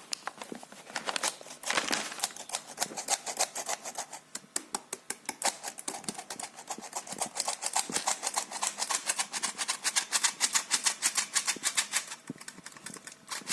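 Flour being sifted: a rapid, even clicking rattle of the sifter, about six strokes a second, breaking off briefly near the end.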